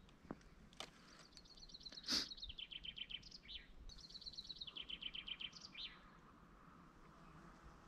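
A songbird singing two phrases, each a rapid trill of repeated notes stepping down in pitch and ending in a short flourish. A few faint sharp clicks sound as well, the loudest about two seconds in.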